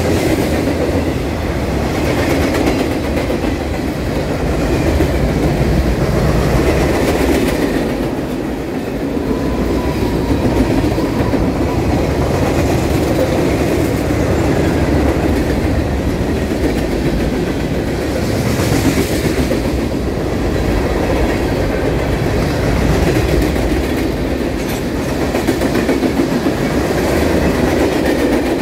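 Freight train cars (covered hoppers, boxcars and gondolas) rolling past, a steady loud rumble and clatter of steel wheels on the rails.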